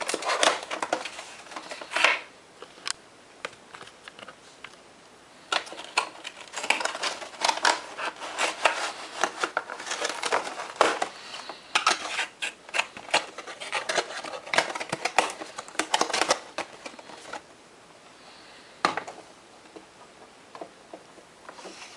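Hands opening a die-cast model's cardboard box and its packaging: irregular clicks, scrapes and rustles in busy spells, with a couple of quieter pauses.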